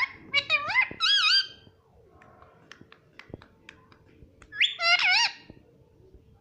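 Pet parrot calling in two short bouts of loud, high, gliding squawk-like calls, one at the start and another about five seconds in, with scattered small clicks between them.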